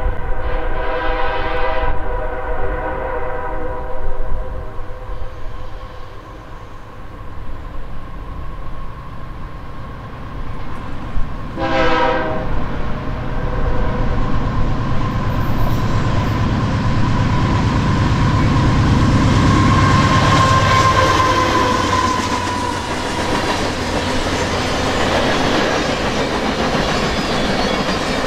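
Canadian Pacific diesel locomotives approaching and passing: the multi-tone air horn sounds at the start and again in one short blast about halfway through. The engines' rumble then builds to its loudest about two-thirds of the way in and gives way to the steady rolling and clickety-clack of the passing cars.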